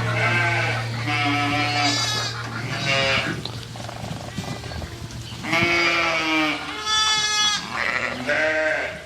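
Livestock bleating: about six wavering bleats, one after another, with short gaps between them. A steady low hum sits under the first two and a half seconds, then stops.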